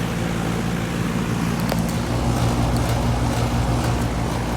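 Goodman air conditioner's outdoor condensing unit running steadily: a compressor hum with the whoosh of the condenser fan.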